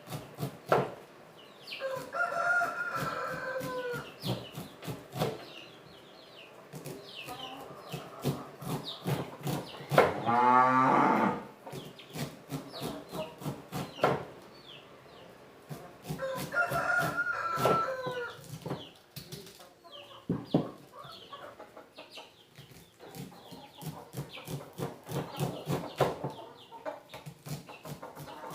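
Roosters crowing twice, with another, lower animal call about ten seconds in, over a steady run of short sharp strokes from a knife cutting kernels off ears of corn.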